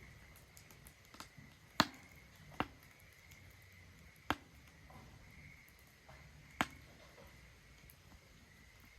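Wood fire crackling in a Solo Stove Ranger fire pit: four sharp pops stand out at irregular moments among fainter ticks, over a low, steady rustle of flame.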